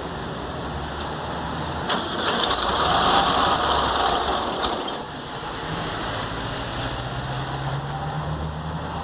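Air-cooled VW Beetle flat-four engine running with a loud, truck-like mechanical rattle from the alternator and cooling fan, whose bearing the owner has found worn. A louder hissing whoosh with a couple of clicks comes in from about two to five seconds in.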